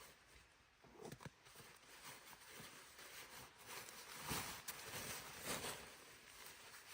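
Faint, irregular crunching and rustling, with a couple of soft knocks about a second in and a louder cluster of crunches past the middle.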